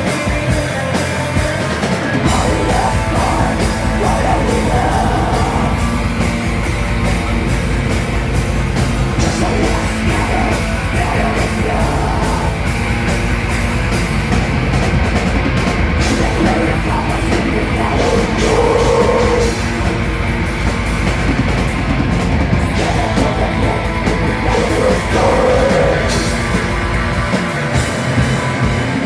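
Live rock band playing loud, with guitars and drums; the bass end fills in about two seconds in.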